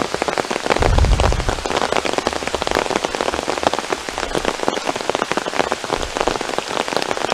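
Heavy rain falling, a dense close patter of drops hitting around the microphone. A short low rumble comes about a second in.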